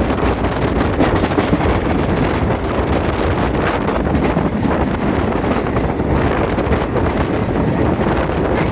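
Train running at speed, with a steady rumble and wind buffeting the microphone.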